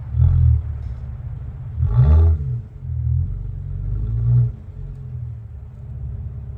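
A motor vehicle's engine running low and revving up and down in three short bursts while it is maneuvered slowly, then cut off abruptly at the end.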